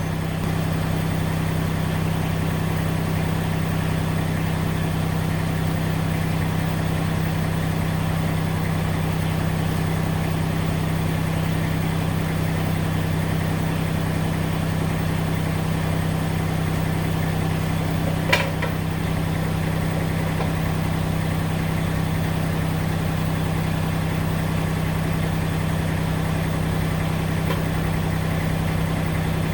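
Massey Ferguson GC1710's three-cylinder diesel engine running steadily at idle. One sharp knock stands out about eighteen seconds in.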